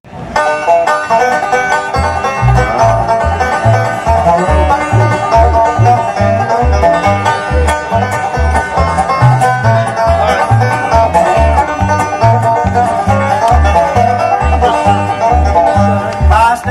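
Up-tempo bluegrass band playing an instrumental passage: fast banjo picking over a steady bass line that comes in about two seconds in, with the music starting abruptly at the outset.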